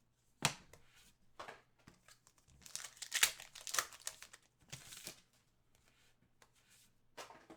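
Hockey card pack being torn open and its wrapper crinkled: a sharp tap about half a second in, then a series of short rustling tears and crackles, loudest around the middle.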